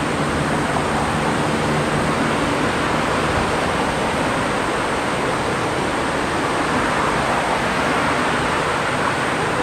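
Steady roar of surf breaking on the beach, with typhoon swell running. A faint low hum fades out over the first few seconds.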